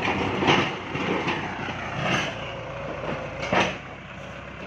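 Kubota tractor's diesel engine running under work, with a few loud clanks and scrapes over it as grass is scraped off the ground.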